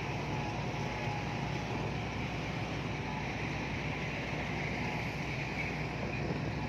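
Heavy diesel earthmoving machinery running steadily, a constant low engine drone with no change in pace.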